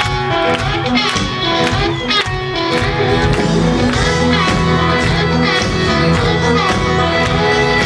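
Live country band playing an instrumental passage with electric guitar over a steady drum beat, loud through a concert PA.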